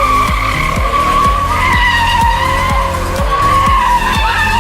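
Car tyres squealing in a long, wavering tone, as in a car doing donuts, over music with a steady thumping beat.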